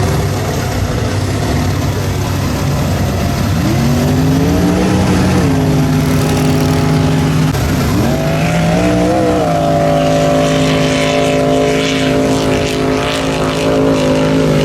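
A mud-bog vehicle's engine revving hard. It climbs about four seconds in, drops sharply for a moment near eight seconds, then is held at high revs until it falls away at the very end, with a rough hiss over it in the last few seconds.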